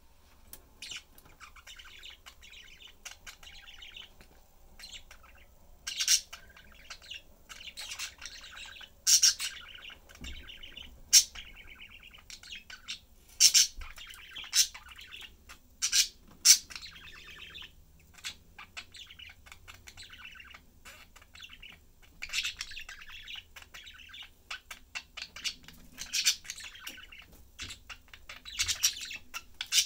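Pet budgerigars chattering: a continuous warbling twitter punctuated by frequent short, loud, sharp chirps.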